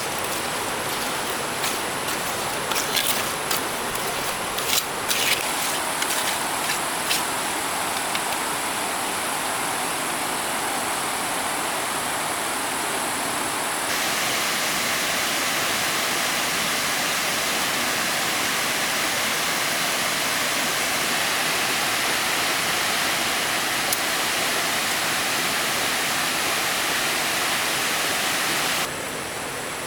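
Steady rush of flowing stream water, with scattered sharp clicks in the first several seconds. About halfway through it abruptly becomes louder and brighter, then drops back just before the end.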